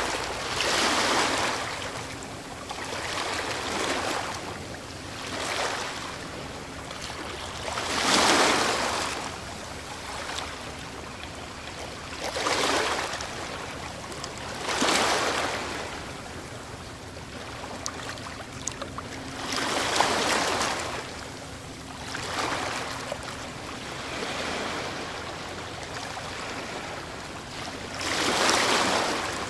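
Ocean waves breaking and washing on the shore, each surge of surf swelling and dying away every few seconds. The biggest surges come about eight, fifteen and twenty seconds in, and again near the end.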